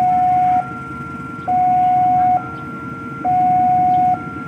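Railway level-crossing warning alarm sounding in a steady two-tone cycle: a louder high tone and a quieter low tone alternate, each lasting a little under a second. A steady low rumble runs underneath.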